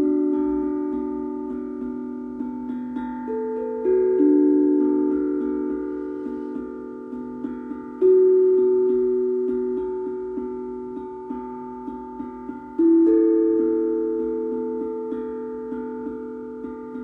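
Steel tongue drum (glucophone) played slowly, single notes of different pitch struck one after another and left to ring, overlapping in long fading decays. The harder strikes come about every four seconds, with lighter taps between.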